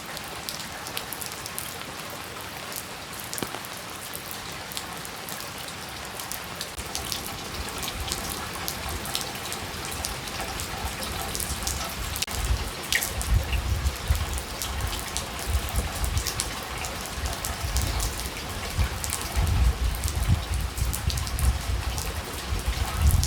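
Steady rain falling, with individual drops ticking and pattering close by. From about halfway in, a low uneven rumble joins it and grows louder.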